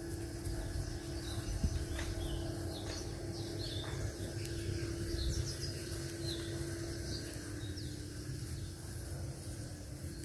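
Small birds chirping on and off, many short high chirps, over a steady low rumble and a faint steady hum.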